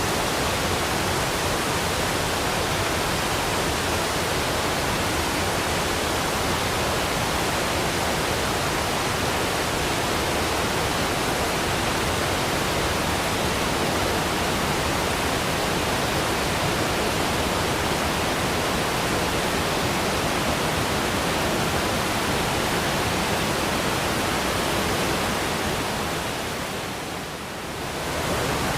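Waterfall rushing in a steady, even roar of falling water; it dips briefly near the end, then returns at full strength.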